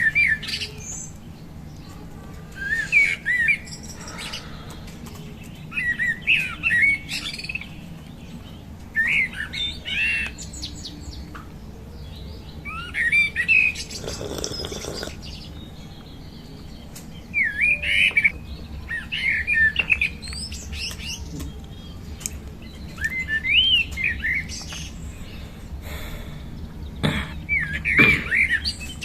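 A songbird singing in short bursts of quick, warbling chirps, one burst every two to three seconds, over a steady low background hum.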